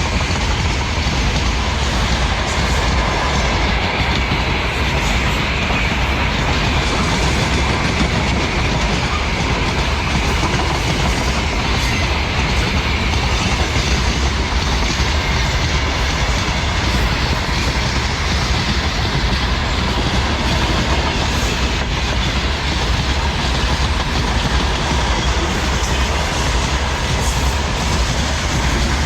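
A long freight train's wagons rolling past at close range, a continuous clatter of wheels over the rails that stays at an even level throughout.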